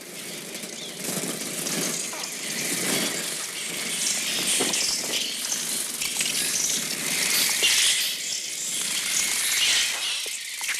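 Electronically produced bird-attack sound effects: a dense, continuous hail of squawking, cawing and wing flapping.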